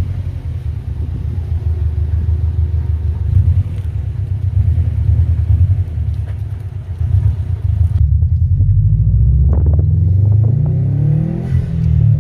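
Subaru WRX STI turbocharged flat-four engine running through an Invidia R400 cat-back exhaust with a deep, uneven rumble. About eight seconds in the sound changes and the engine revs up, its pitch climbing over the last few seconds.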